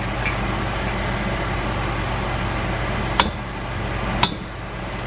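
Steady sizzling hiss of shrimp and an egg frying in a hot wok, with two sharp taps about three and four seconds in as a second egg is cracked on the wok.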